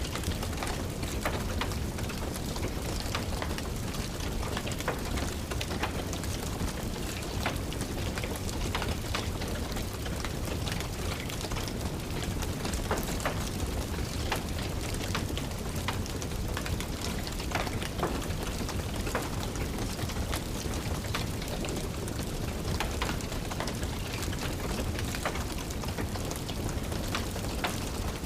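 Steady rain with a wood fire crackling, frequent small pops and snaps scattered over the rain's constant noise.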